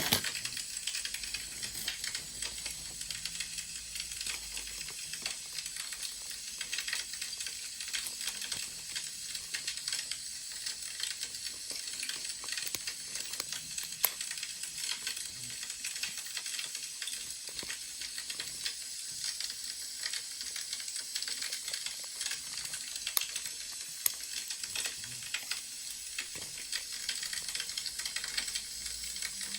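Wood fire crackling: a steady hiss full of small crackles, with a few sharper pops, the loudest about halfway through.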